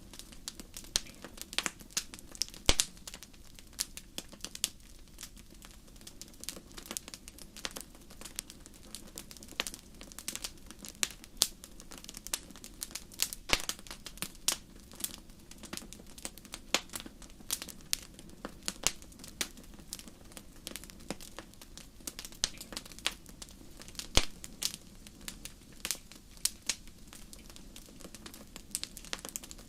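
Wood fire in a fireplace crackling, with irregular sharp pops several times a second, some louder than others, over a faint steady low background.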